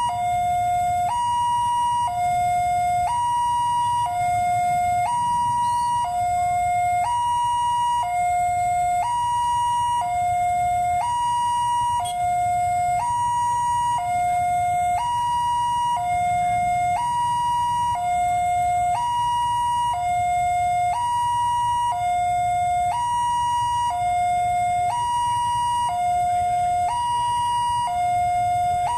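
Railway level-crossing warning siren sounding steadily, alternating between two pitches, a lower and a higher tone of about a second each, over and over: the signal that a train is approaching and the crossing gate is closed.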